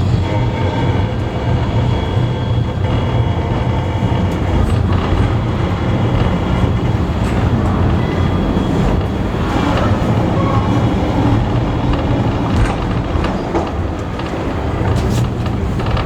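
Heritage railway carriage in motion, heard from inside: a steady, loud rumble of wheels on the rails with scattered clicks from the track and coach.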